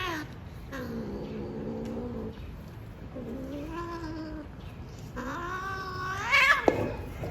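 A cat in heat yowling: three drawn-out, wavering calls, the last one longer and louder and rising steeply in pitch. A sharp knock follows just after it.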